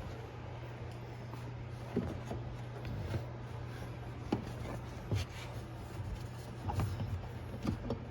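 Scattered light knocks and clicks from hoses and plastic parts being handled and fitted inside a washing machine, over a steady low hum.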